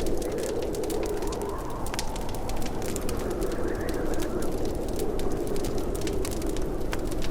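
Wood fire crackling in a fireplace: irregular sharp pops and snaps over a steady low rushing sound.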